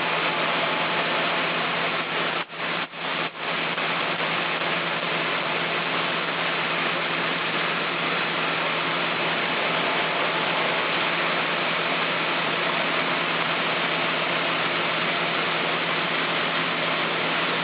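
Sawmill machinery running with a steady loud noise, briefly cut three times in quick succession about two and a half to three and a half seconds in.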